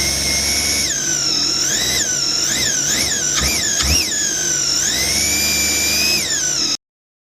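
Supercharged three-cylinder engine of a Sea-Doo GTX 300 jet ski revving up and down with a high whine, on a newly replaced throttle body. It takes several quick throttle blips in a row around the middle, then a longer rev, and the sound ends abruptly near the end.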